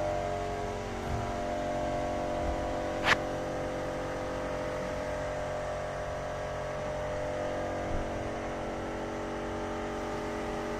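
Steady mechanical hum of a running motor, even and unchanging, with one sharp click about three seconds in.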